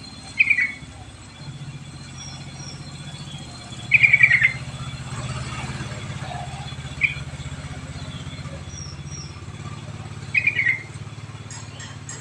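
Yellow-vented bulbul (cucak trucuk) giving short, bubbly chirping phrases four times, over a steady low hum.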